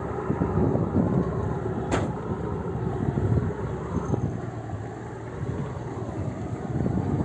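Vehicle driving slowly down a rough, steep dirt track, heard from inside: a steady low engine and road rumble with uneven jolts. There is one sharp click about two seconds in.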